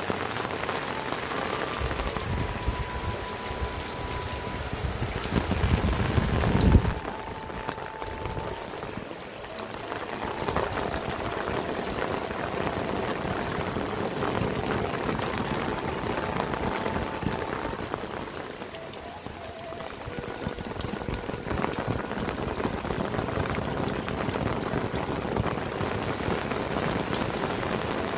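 Heavy rain falling steadily, a dense even hiss. From about two seconds in, a low rumble builds and then cuts off sharply about seven seconds in.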